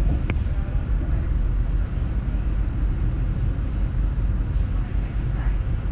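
Cabin noise aboard a Hitachi Caravaggio double-deck electric commuter train under way: a steady low rumble from the running gear on the track. One sharp click comes about a third of a second in.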